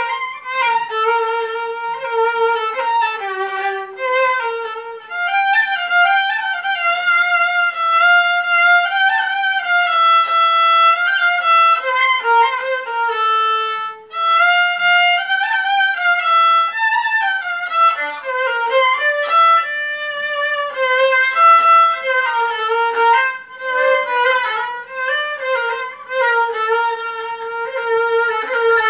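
Solo violin playing an improvised melody, a single line of bowed notes moving up and down, with a brief pause about halfway through.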